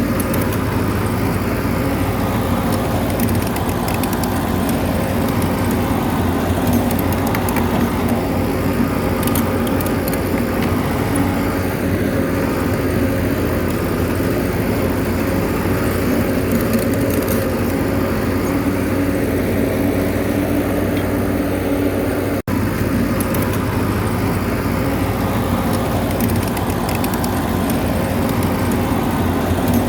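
Bulldozer's diesel engine running steadily, with light clicks and rattles now and then.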